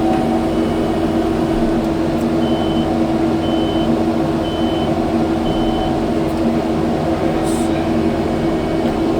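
Kubota skid steer's diesel engine running steadily under work, with its reversing alarm beeping about once a second for a few seconds midway.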